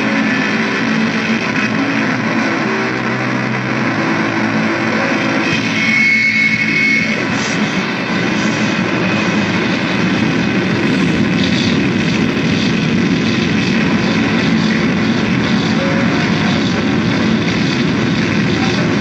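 Loud, dense, droning noise music that runs on without a break. A few held low tones sound over the first few seconds, and a short high whistling tone comes about six seconds in.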